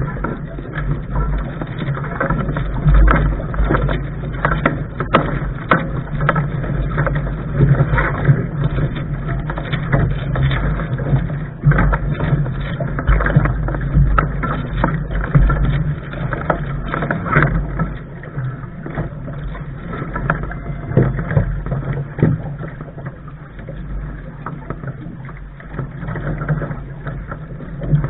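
Lark sailing dinghy under way: water rushing and slapping against the hull, with many short splashes and knocks over a steady low rumble.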